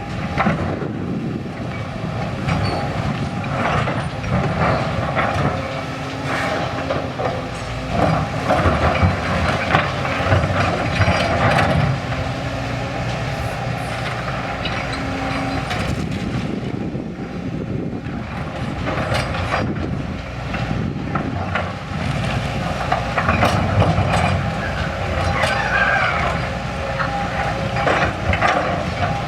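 A heavy vehicle or machine running steadily, with repeated rattling and clanking.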